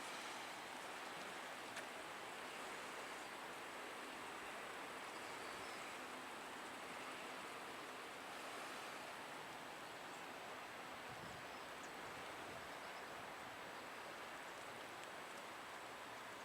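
Steady rain falling, an even, faint hiss, with a single small click about two seconds in.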